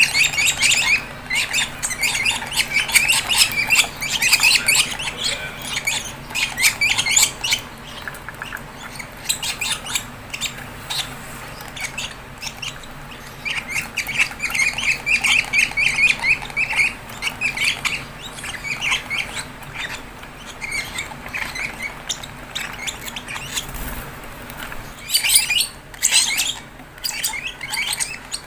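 Fischer's lovebird chicks giving rapid, raspy begging squawks in repeated bouts while being hand-fed.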